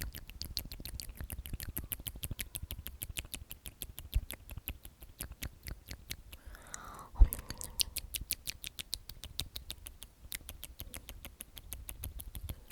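Close-miked ASMR mouth sounds: a fast, even run of small wet clicks and smacks, with a short falling whispered sound ending in a louder lip pop a little past halfway.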